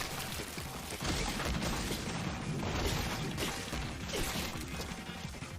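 Anime episode soundtrack playing: fight-scene sound effects, a continuous noisy rustle with a few hits, under faint music.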